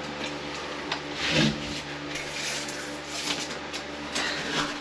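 A few short rustling and scraping handling noises over a steady low hum.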